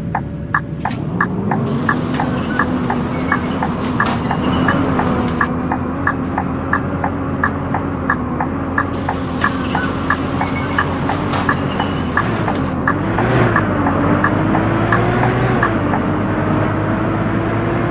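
Scania K230UB bus on the move, its five-cylinder diesel engine running with a rising pitch as it pulls harder partway through. A sharp regular clicking, about three times a second, runs along with it from the bus's faulty ('buggy') wheels.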